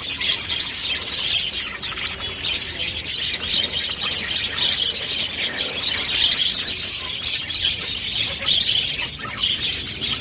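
A flock of small birds chirping at once: a dense, unbroken chatter of many short, high calls overlapping throughout.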